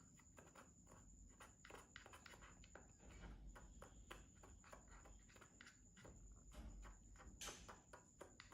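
Faint, irregular clicks and taps of a small spoon stirring a powder-and-water mixture in a little cup.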